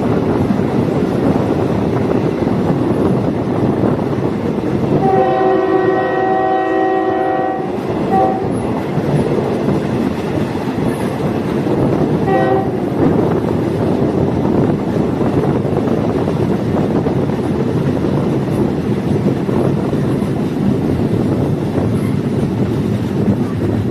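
DMU train running along the track with steady rumble and wheel noise, its horn sounding one long blast about five seconds in, followed by a short toot and another short toot a few seconds later.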